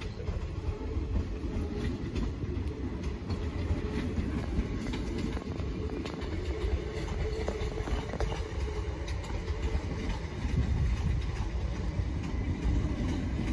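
Southern electric multiple unit running slowly out of the station: a steady low rumble with its wheels clicking over rail joints and pointwork.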